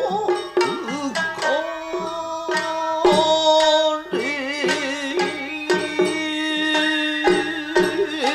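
Nagauta music: shamisen plucked in a steady stream of strokes under a singer's long, wavering held notes.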